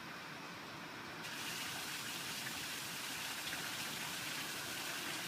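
Steady hiss of rain falling, suddenly louder and brighter about a second in.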